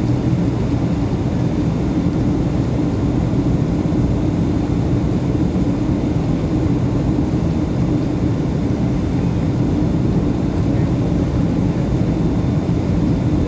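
Steady, even drone of a Boeing 757-200 in flight, heard inside the cabin at a window seat over the wing: engine noise and air rushing past the fuselage, with most of the sound low.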